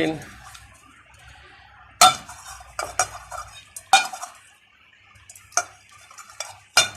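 Small metal parts of an AC compressor's solenoid valve clinking against a container and each other as they are cleaned in petrol, with a string of sharp clinks about two, three and four seconds in and again near the end.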